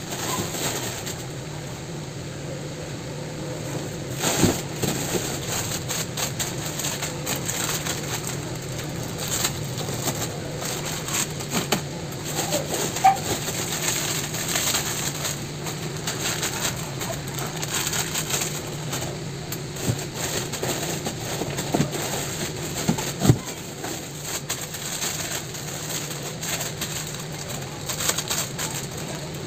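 Birds cooing steadily in the background, with a few short knocks and plastic crinkles as sachets are handled on a shelf.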